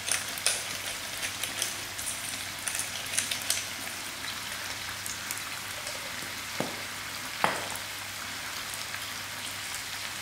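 Chicken giblets with onions and chillies frying in a pot: a steady sizzle with small spitting crackles in the first few seconds. Two sharp knocks about a second apart come near three quarters of the way through.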